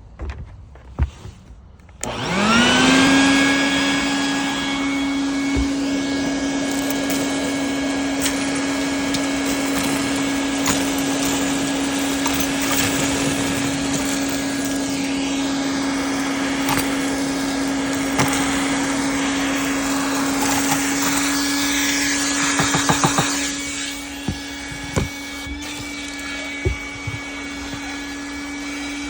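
Vacuum cleaner switched on about two seconds in, its motor whine rising and settling to a steady pitch, with scattered clicks and rattles as broken Christmas ornament pieces are sucked up. A burst of rattling comes near the end, after which the running sound is quieter.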